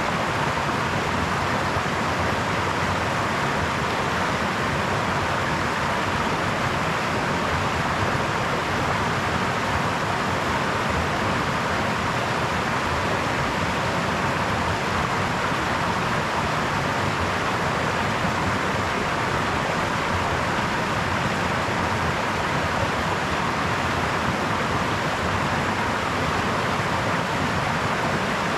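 Brook water flowing steadily, an even rushing sound with no change.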